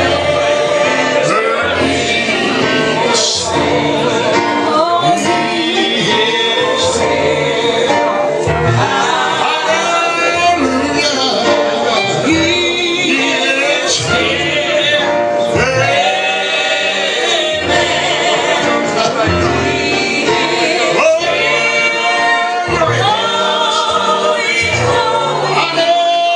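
Gospel music: men and women singing a song together over instrumental accompaniment with steady low bass notes.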